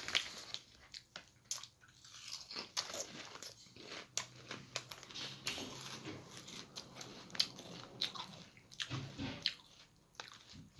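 A person crunching and chewing potato chips close to the microphone: irregular crisp crackles from the bites and chewing.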